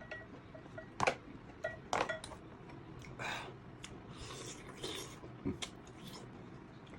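Cooked sea snail shells and eating utensils clinking and scraping against a plate. There are a couple of sharp clicks about one and two seconds in, then a few softer rustles and scrapes.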